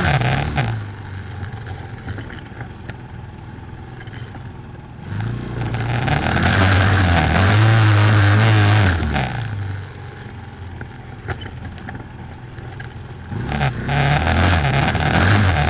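200 cc quad bike engine revving up under throttle in three loud stretches, its pitch climbing and then dropping, with quieter stretches of lower revs in between.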